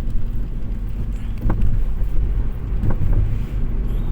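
Car cabin noise while driving: a steady low rumble of engine and tyres on the road, with two brief knocks about a second and a half and three seconds in.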